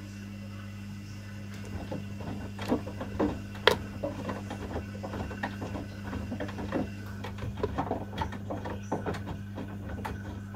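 Washing machine running a wash cycle: a steady mechanical hum with irregular clicks and knocks of the drum tumbling its load, starting about a second and a half in.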